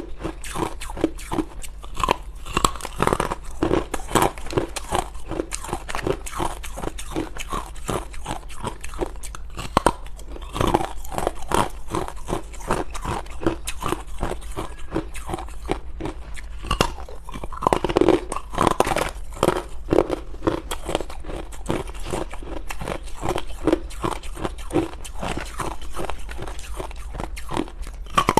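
Hard ice being bitten and chewed close to the microphone: a continuous run of sharp crunches, several a second.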